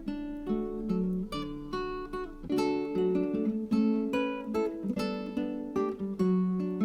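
Background music: acoustic guitar plucking and strumming a gentle, rhythmic pattern of notes.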